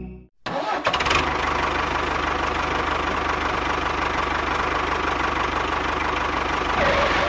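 A motor running steadily with a fast, even pulse. It starts abruptly about half a second in and fades out at the end.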